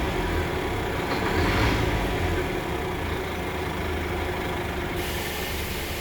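Scania P320 crane truck's diesel engine running steadily with a low rumble; a hiss starts abruptly near the end.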